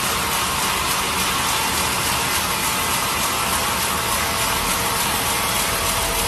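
Sawmill machinery running with a steady, dense noise that does not let up.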